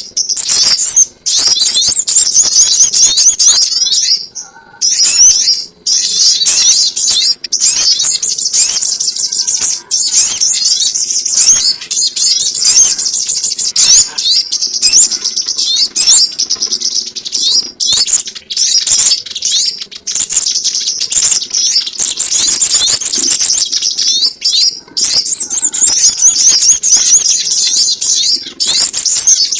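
Loud, dense, high-pitched chirping of the sogon ontong bird, played back as a trapping lure call. The notes come in rapid runs of several seconds with short breaks between them, and a faint steady hum lies underneath.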